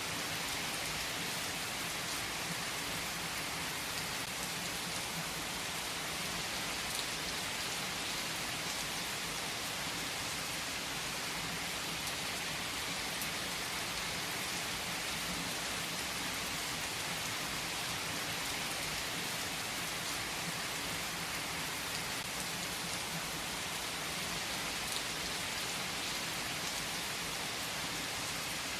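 Steady rainfall pattering on a surface, an even hiss with occasional individual drop ticks standing out.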